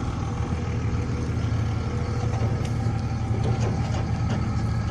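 An engine idling steadily in the background, a low even hum with no change in speed.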